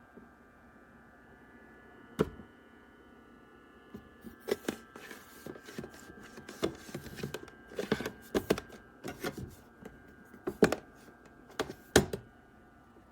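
Irregular light clicks, taps and knocks of small things being handled and moved about, over a faint steady high whine.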